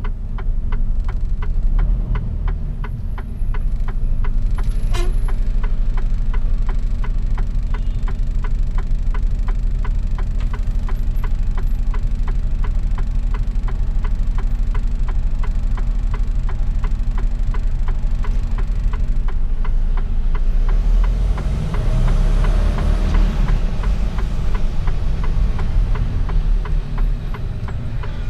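Mercedes-Benz Actros truck's diesel engine running steadily from inside the cab, with a regular ticking over the hum. About three quarters of the way through a louder rushing noise swells up and fades.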